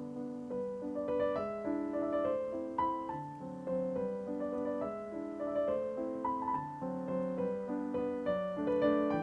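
Background piano music: a gentle melody over a flowing accompaniment, note following note at an even pace.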